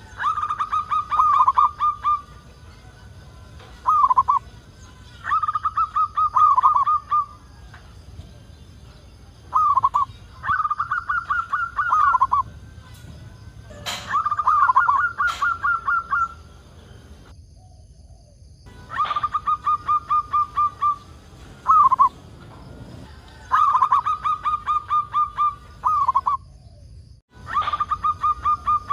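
A zebra dove (perkutut) cooing: a repeated phrase of one short opening coo followed by a quick run of staccato notes, coming every four to five seconds. Two sharp clicks sound about halfway through, and the sound cuts out briefly twice.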